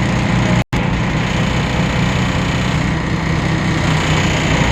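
DAF PR 228 diesel engine of a Temsa Avenue LF city bus running steadily with a strong low hum. The sound cuts out for an instant under a second in.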